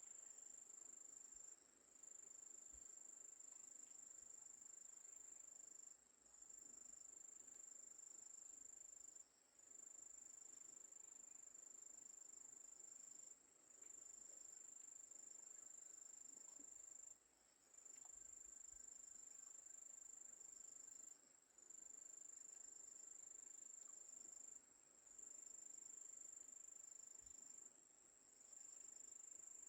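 An insect trilling faintly in one steady high note, breaking off briefly every three to four seconds, over a soft background hiss.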